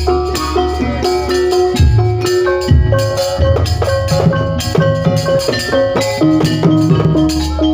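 Jaranan pegon music: a gamelan-style ensemble with ringing metal mallet instruments playing a repeating melody over deep, bass-heavy drum strokes.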